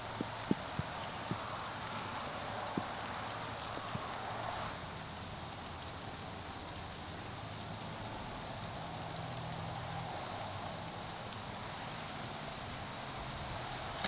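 Light rain pattering steadily, with a few sharp ticks of drops in the first three seconds.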